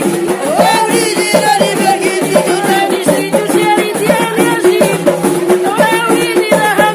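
Moroccan folk song: singing with ornamented, sliding melody lines over a steady, fast beat of hand drums and rattling percussion.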